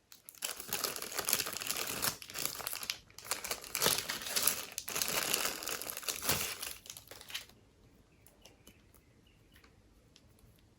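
Packaging crinkling as it is handled and opened, for about seven seconds, then a few faint light ticks.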